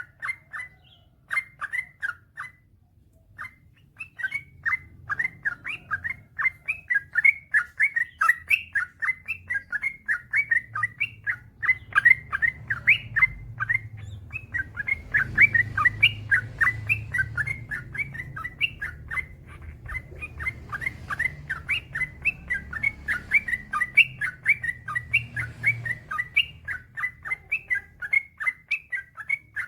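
Yellow-vented bulbul singing a long, rapid run of short chirping notes: the 'ropel panjang' of a bird in full song. There is a brief pause about three seconds in, and a faint low hum sits underneath.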